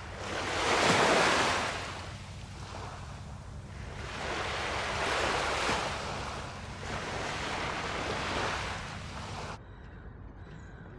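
Baltic Sea surf washing onto the beach in swells: a loud wash about a second in, then two softer ones, over a steady low rumble. The sound cuts off abruptly near the end.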